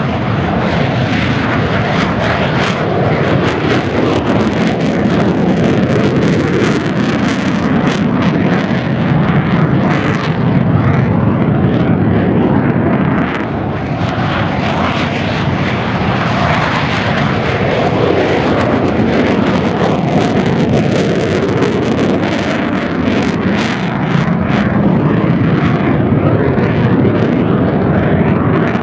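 Mitsubishi F-2A jet fighters flying by, their afterburning turbofan engines making a loud, crackling jet roar. The roar swells and eases as the jets pass, dipping briefly about halfway.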